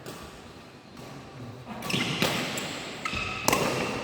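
Badminton rally: sharp racket strikes on the shuttlecock, a few of them in the second half, with short high squeaks of shoes on the court floor.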